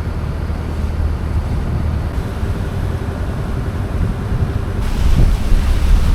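Wind buffeting the microphone: a steady, heavy low rumble of wind noise.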